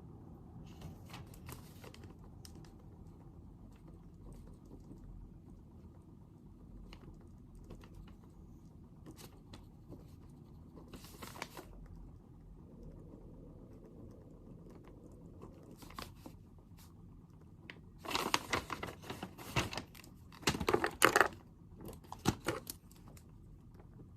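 Paper handled on a desk: faint scattered clicks and rustles over a steady low room hum, then loud crinkling and rustling in two bursts near the end, with a smaller one after.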